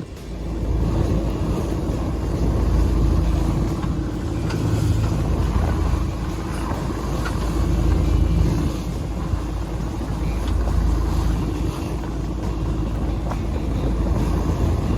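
Boat underway with wind buffeting the microphone over a steady low hum, starting abruptly.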